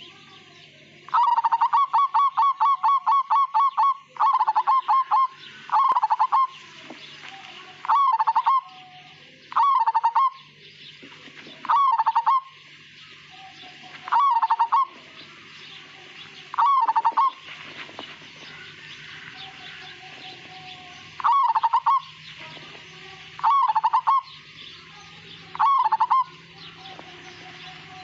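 Zebra dove (perkutut, Majapahit strain) cooing: a long run of rapid notes, then short cooing phrases repeated about every two seconds.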